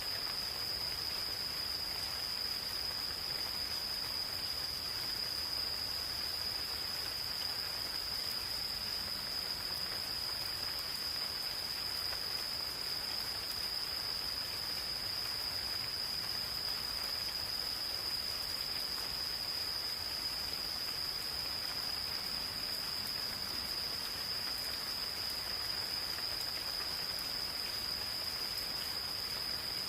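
Insects singing in one unbroken, high-pitched steady trill over the soft hiss and patter of gentle rain falling on the forest.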